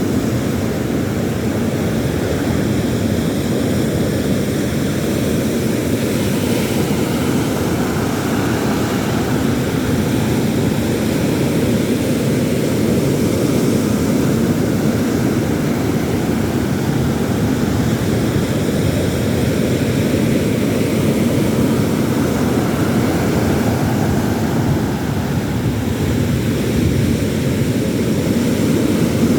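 Steady low roar of sea surf mixed with wind buffeting the microphone, with no separate events standing out.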